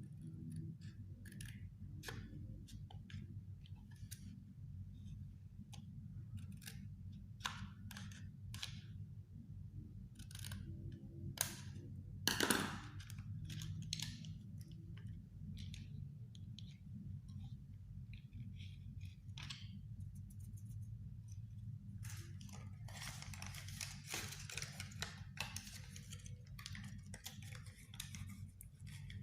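Scissors snipping the cardboard of a cigarette packet in scattered, separate cuts, with paper handling and rustling, one louder snap about halfway through and a denser stretch of crinkling later on, over a low steady hum.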